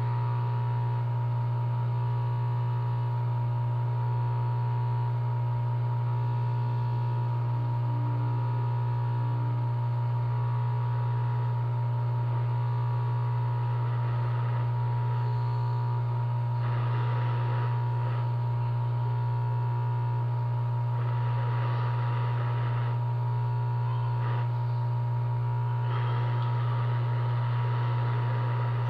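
Steady low electrical hum with a fainter steady high tone above it, broken by a few short patches of hiss-like noise around the middle and near the end.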